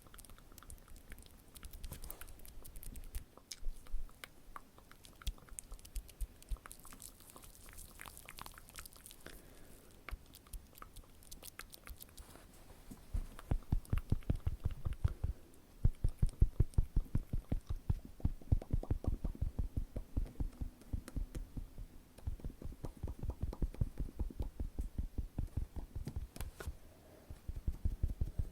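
Close-miked ASMR mouth sounds and tapping: fine crisp clicks at first, then from about halfway a fast run of soft thumps, about seven a second, in several bursts.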